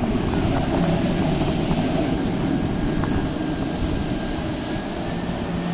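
Yamaha jet ski engine running, its pitch dropping about a second in and then holding steady, over a constant rush of wind and water.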